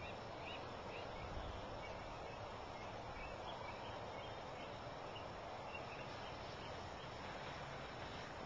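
Outdoor backyard ambience: a steady background hiss with faint, repeated high chirps of small birds during the first few seconds.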